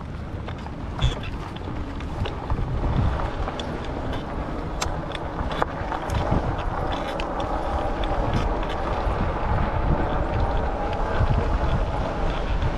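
Wind buffeting the microphone of a chest-mounted GoPro on a moving e-bike, with a steady low rumble and scattered ticks. About halfway through, a faint hum of several tones joins in.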